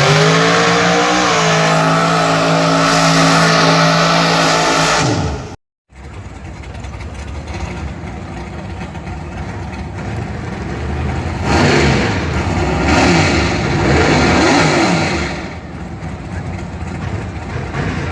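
A vehicle engine revs up and holds at high speed for about five seconds, then cuts off abruptly. After a moment, more engine noise comes in, rising and falling in pitch and swelling about two-thirds of the way through.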